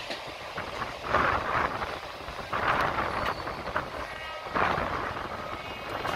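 Passenger train in motion, heard from an open door of a coach: wheels running on the rails, with a rush of noise that swells about every second and a half.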